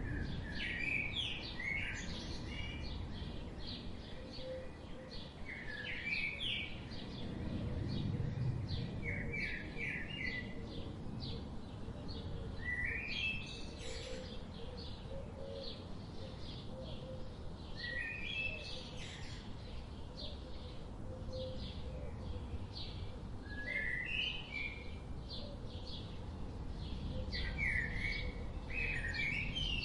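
A songbird singing short phrases, one every four to five seconds, with faint high chirps from other birds throughout, over a steady low rush of a flowing river.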